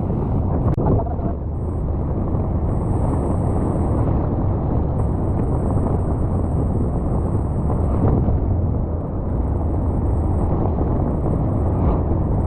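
Wind buffeting the microphone on a moving vehicle: a steady low rumble, with road and engine noise underneath.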